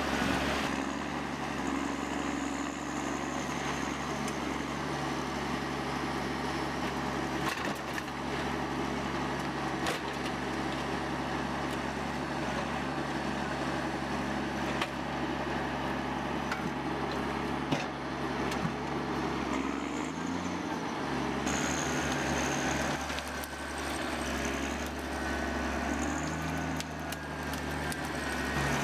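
Engine of a heavy machine running steadily, with scattered clicks and knocks.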